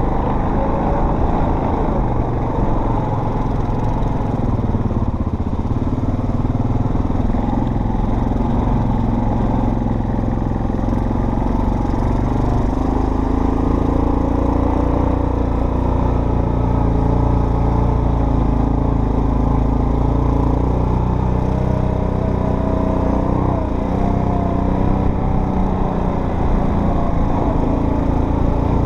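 Off-road vehicle engine running steadily while driving on a trail. Its pitch rises and falls gently with the throttle.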